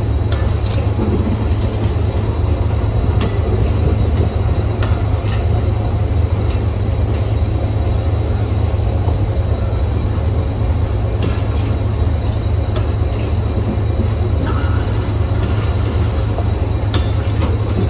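Departing diesel-hauled passenger train rolling through the station: a steady low rumble with scattered clicks and clanks from wheels and couplings.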